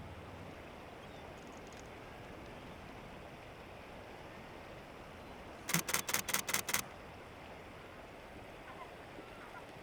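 Camera shutter firing a rapid burst of about eight frames in roughly one second, about six seconds in, over a faint steady background hiss.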